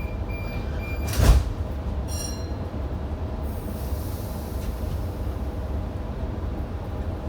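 Electric passenger train stopped at a station, heard inside the carriage. Repeated door-warning beeps end about a second in as the sliding doors shut with a loud thump. A short tone follows, then a hiss starting about three and a half seconds in, all over the train's steady low hum.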